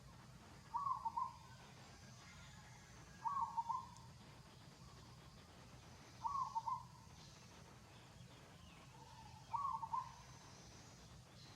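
A bird calling: a short call of three or four quick notes, repeated four times about every three seconds, over a low steady background hum.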